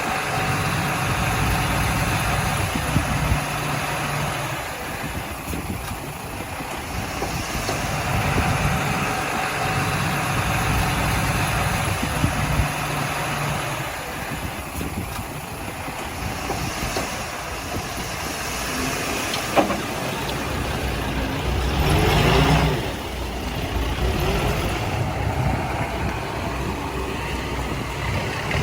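Heavy diesel engines of earthmoving machinery (a bulldozer and dump trucks) running and working. The engine note swells and eases as the load comes on and off. There is a sharp click about two-thirds of the way through, followed shortly by a brief, louder rush of noise.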